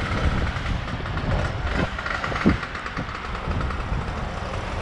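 Truck-mounted aerial work platform running while its basket is moved out, with strong gusty wind rumbling on the microphone.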